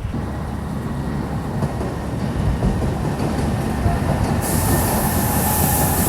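High-speed passenger train running on the line, a steady rumble with a thin high whine or wheel squeal over it. A sharp hiss comes in about four seconds in, and the sound grows slightly louder.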